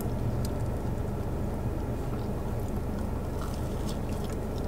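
Faint chewing and a crunchy bite into a fried chicken sandwich near the end, over a steady low hum inside a car's cabin.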